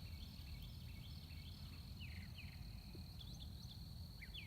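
Faint field ambience: a steady high insect trill with scattered short, falling chirps from small birds over a low rumble.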